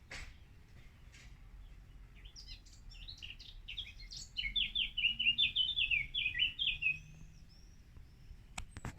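A songbird singing one rapid phrase of many short chirping notes, building up and loudest in its second half, over a steady low background rumble. A few sharp clicks sound near the end.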